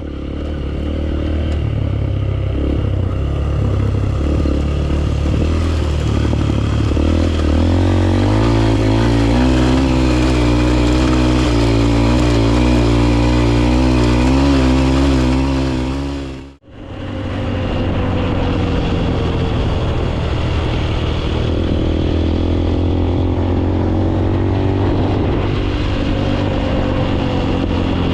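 Motorcycle engine running steadily while riding, its pitch wavering a little as the throttle changes. The sound drops out for a moment about two-thirds of the way through, then carries on.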